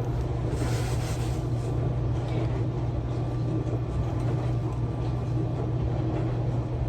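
A steady low mechanical hum with a noisy wash over it, unchanging throughout.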